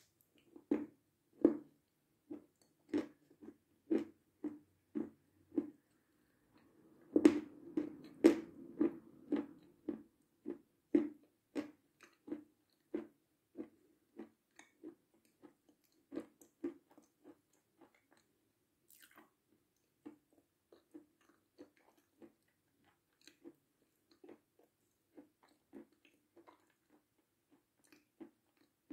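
Close-miked chewing of a slightly hard meringue dipped in cream: a steady run of short crunching clicks about two a second, loudest about a quarter of the way in, then growing softer and sparser as the mouthful is eaten down.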